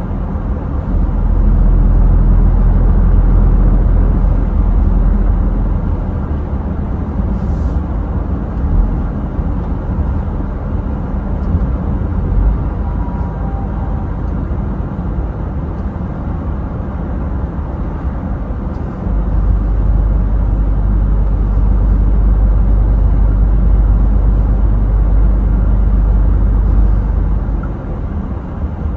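Scania truck driving, a steady engine drone and road noise. A heavier, louder low rumble runs from about a second in to six seconds, and again from about nineteen seconds until near the end.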